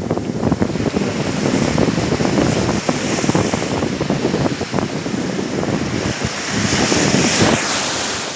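Sea waves washing onto the shore, with wind buffeting the microphone. The wash swells about seven seconds in and then eases off.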